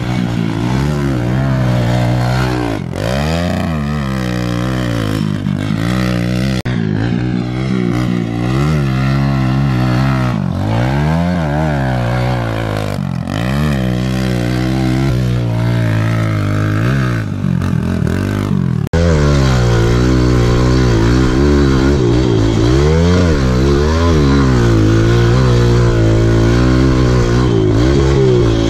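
Pit bike engine being ridden hard, its pitch rising and falling every second or two as the throttle is opened and closed. About two-thirds of the way through, the engine abruptly gets louder.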